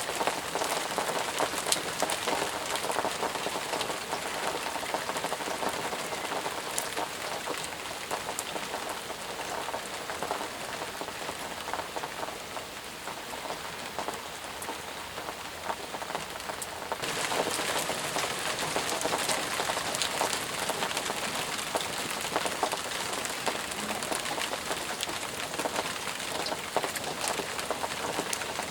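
Steady heavy rain falling, a dense hiss of many small drop impacts. A little past halfway it suddenly turns brighter and slightly louder.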